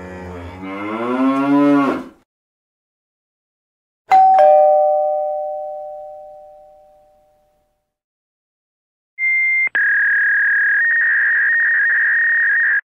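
A cow mooing, rising in pitch and ending about two seconds in. Then a two-note doorbell chime, ding-dong, dying away over about three seconds. Near the end, a short electronic beep followed by a long steady high beep that cuts off suddenly.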